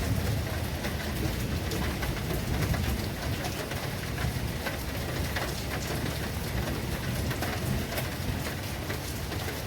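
Steady heavy rain falling on surfaces, with many separate drop impacts over a continuous low rumble.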